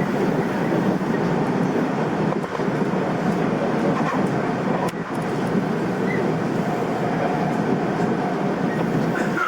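Tobu Tojo Line commuter train running, heard from inside the passenger car: a steady noise of wheels on rail and the moving car, with a couple of faint knocks.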